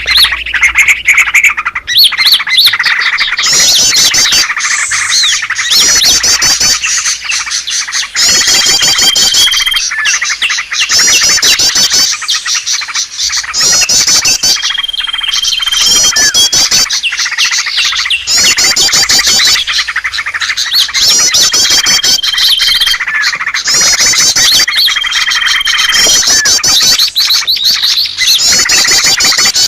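Small-bird lure call (suara pikat): a loud, dense chatter of rapid chirps and trills from small songbirds. A short, steady whistle recurs every few seconds in a repeating pattern.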